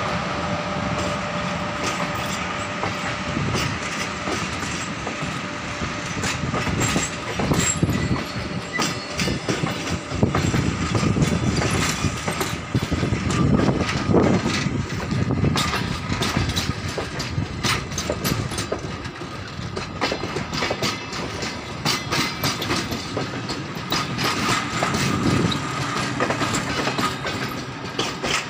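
Passenger coaches of a departing train rolling past, their wheels clicking and clattering over the rail joints over a steady rolling rumble.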